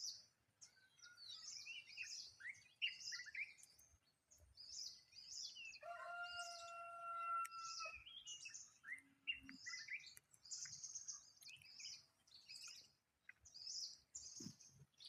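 Wild birds chirping and singing, many short high calls and trills overlapping, faint throughout. About six seconds in, a single steady held tone of unclear source sounds for about two seconds.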